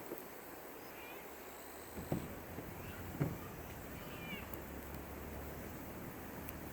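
A few short, high, arching animal calls, spaced a second or more apart. Two sharp knocks come about a second apart early on, over a low hum that swells from about two seconds in.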